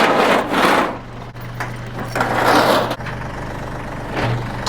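Bad Boy 4025H compact tractor's engine running steadily, with two loud rushing noise bursts over it, one at the start and one about two seconds in.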